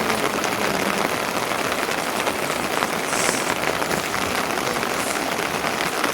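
Steady rain pattering on a surface, a dense even hiss of many small drops.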